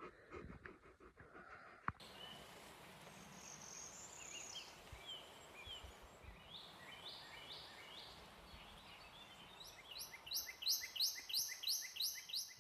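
Small birds chirping faintly over quiet outdoor background hiss, ending in a quick run of about ten repeated chirps.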